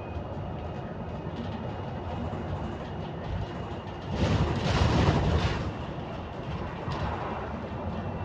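Interior running noise of a moving London bus: steady engine and road rumble with faint rattles. A louder rush of noise swells for about a second and a half about four seconds in.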